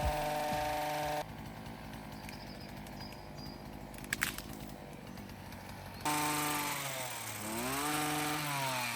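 Two-stroke chainsaw running at high speed, cut off abruptly about a second in. A quieter stretch follows with a sharp click in the middle. The chainsaw comes back about six seconds in, its pitch dropping and then rising again as the throttle is let off and opened.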